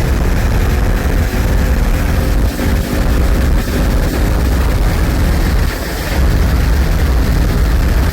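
Car engines and road noise at speed, under heavy wind rumble on the microphone.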